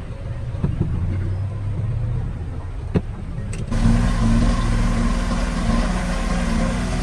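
Heavy construction machine's diesel engine running, with a sharp knock about three seconds in; a little later the engine sound turns abruptly louder and fuller and stays steady.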